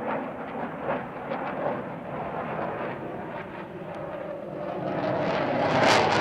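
Panavia Tornado IDS jet in flight, its twin RB199 turbofan engines giving a steady rushing noise that grows louder near the end as the aircraft draws nearer.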